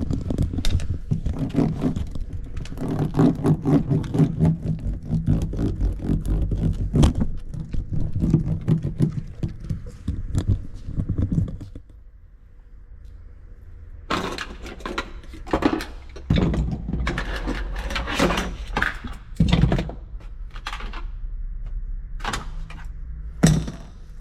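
A rapid series of knocks and taps, then, after a short lull, several bursts of scraping and rubbing, with a last sharp knock near the end: hands-on work on car interior panels and insulation.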